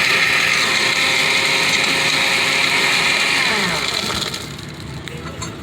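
Blender running at full speed, blending ice, coffee and powdered ice cream into a frozen drink, then switched off about three and a half seconds in, its motor winding down with a falling whine.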